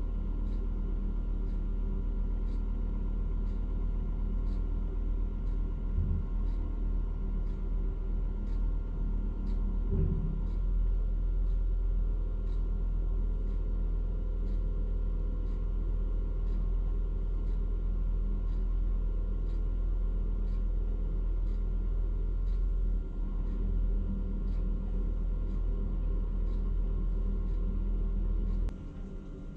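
Truck crane's diesel engine running steadily, a low rumble with faint regular ticking over it, dropping away abruptly just before the end.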